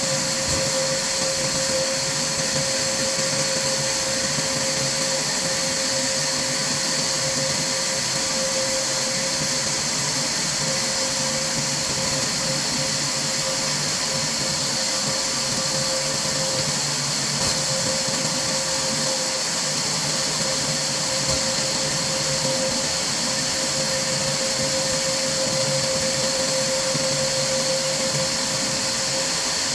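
Steady machine whir with a constant hum and a strong high hiss, unchanging in level.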